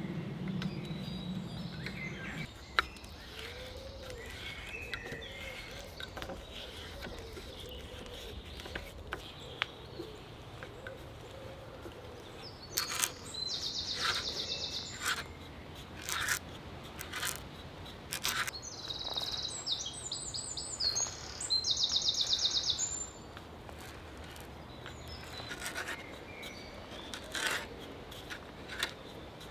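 A songbird singing short bursts of fast, even trills, with scattered sharp knocks and clicks in between.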